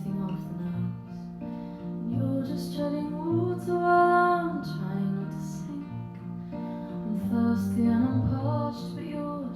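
Acoustic guitar strummed and picked in a live folk-style song, with a woman's voice singing a long held note about four seconds in.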